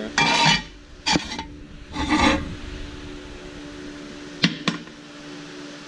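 Pieces of scrap metal being handled: three short scrapes as they slide and rub against each other, then two sharp clinks about four and a half seconds in.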